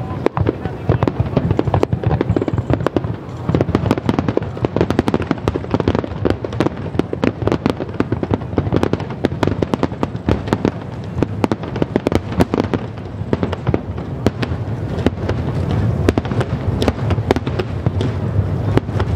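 Fireworks display in a dense barrage: shells bursting in rapid, overlapping bangs with continuous crackling and no break.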